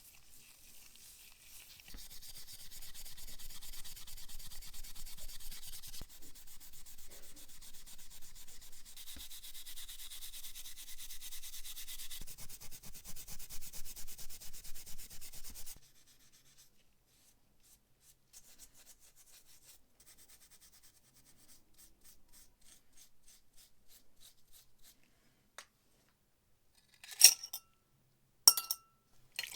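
Scrubbing or sanding rub on a metal lighter part, such as when cleaning off rust, running for about fourteen seconds and then stopping. Near the end come two sharp metallic clinks.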